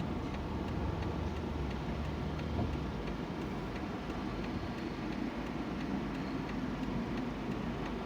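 Car engine and road noise heard from inside the cabin as the car drives, with a faint regular ticking, typical of the turn-signal indicator.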